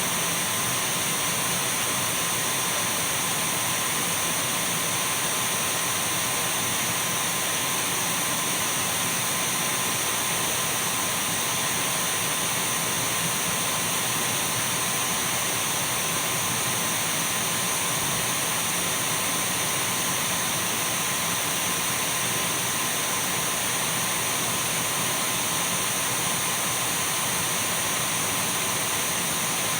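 Dyson V12 cordless stick vacuum running steadily at one speed: an even rush of air with a thin high whine and a faint steady tone beneath it.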